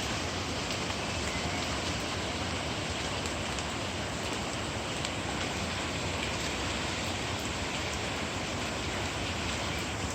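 Steady rain falling after a storm: an even hiss with faint scattered drop ticks.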